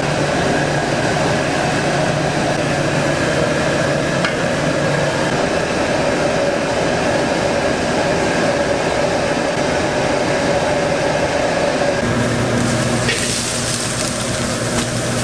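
Steady roar of a commercial Chinese-style restaurant kitchen, with wok burners and food sizzling while it is stirred. About twelve seconds in, the hum changes and a brighter hiss joins.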